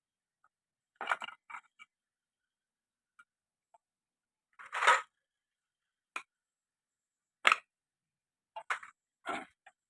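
Scattered clinks and knocks of metal motorcycle engine parts being handled during a teardown: about seven short separate impacts, the loudest about five seconds in.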